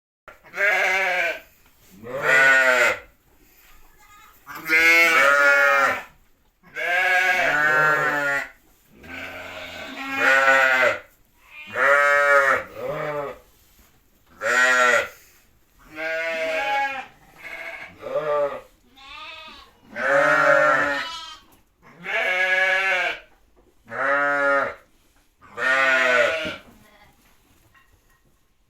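A newborn lamb bleating over and over: about sixteen wavering calls, each roughly a second long, with short pauses between them.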